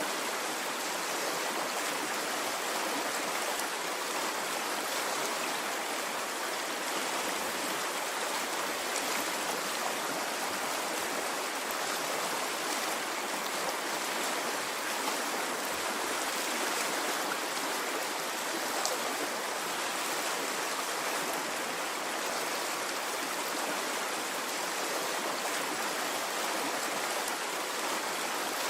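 Stream of running water, a steady, even rush with no surges or swells.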